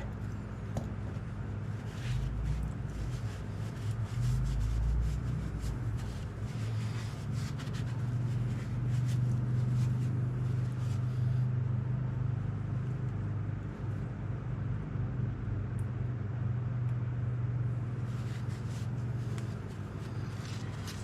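Clicks and small metal knocks of a wrench tightening a hydraulic hose fitting on a tractor lift cylinder, over a steady low engine hum that swells several times.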